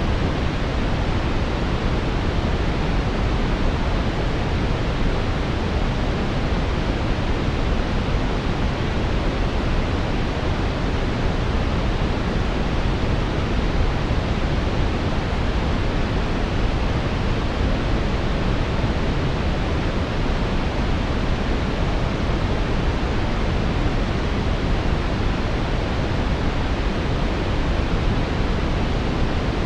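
Steady synthetic brown noise: an even, deep rushing hiss, strongest in the bass and falling off toward the treble, with no changes or events.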